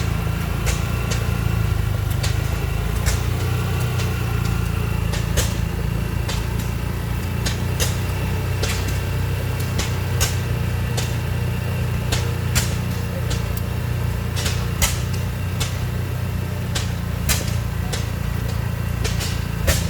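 Several old oilfield engines running, their slow, uneven exhaust pops coming every second or so over a steady low engine drone.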